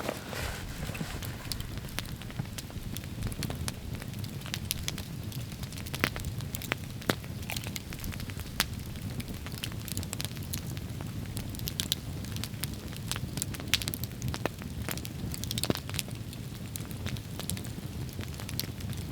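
Campfire of wood crackling, with sharp pops scattered irregularly throughout over a steady low rush of noise.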